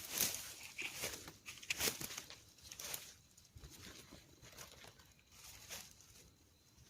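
Scattered crackles, rustles and light knocks from hand-harvesting wild bamboo shoots: digging at them and tearing at shoots and dry litter. The knocks are strongest in the first two seconds, then fainter rustling follows.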